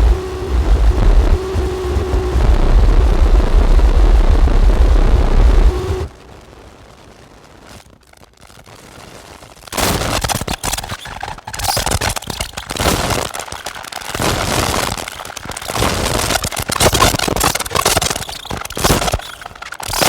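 Harsh noise music from a Make Noise modular synthesizer patch fed through Death By Audio fuzz and filter pedals. A heavy, distorted bass drone with a held mid tone cuts off suddenly about six seconds in and leaves a few seconds of faint hiss. Choppy, crackling bursts of distorted noise then take over.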